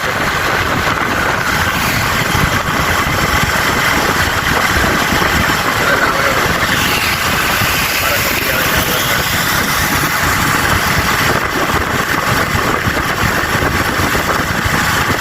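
Motorcycle being ridden on the road: a steady rush of engine and road noise with no change in pace.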